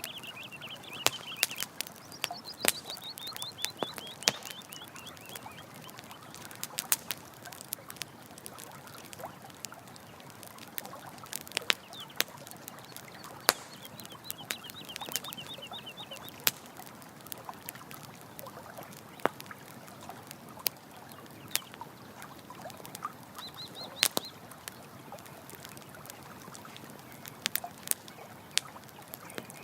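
Campfire crackling with frequent sharp pops over a steady rush of running water. A few short, rapid trilled calls, several of them falling in pitch, sound from an animal, most likely a bird.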